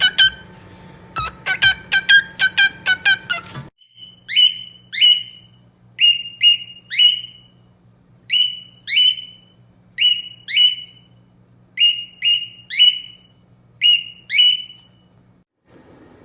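Parrot calls across two clips: first a quick run of short chirping calls, then after a cut a long series of sharp, high whistled calls, each dropping in pitch, often coming in pairs.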